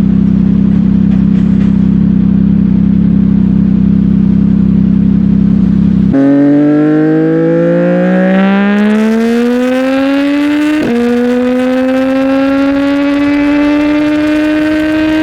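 CFMOTO 675NK's three-cylinder engine through a titanium aftermarket exhaust: a steady low drone, then from about six seconds in the engine pulls hard with rising pitch, drops in pitch at an upshift about eleven seconds in, and climbs again to a second upshift at the end.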